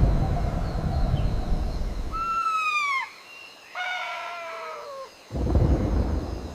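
A low rumbling noise, then two drawn-out, descending animal calls, one about two seconds in and a longer one about four seconds in, followed by the low rumbling again.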